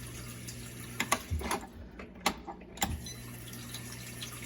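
Water from a GE dishwasher's new inlet valve, running steadily into the basin as it fills at a high flow rate. A few sharp knocks come through the middle, and the hiss dips briefly a little after halfway.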